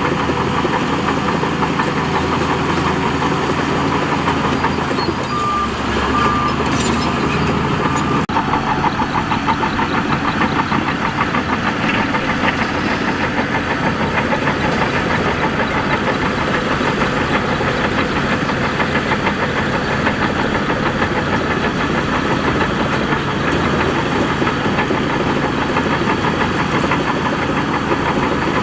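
Heavy diesel engine of a Shantui DH17C2 bulldozer running steadily under work, with three short high beeps between about five and eight seconds in.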